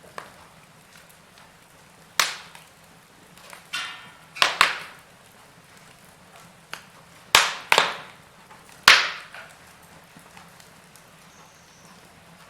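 Fireplace fire crackling, with a handful of sharp pops at irregular intervals, the loudest a little past halfway, over a faint steady hiss.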